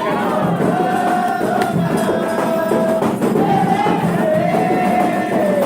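A group of voices singing or chanting in long held notes over steady hand percussion.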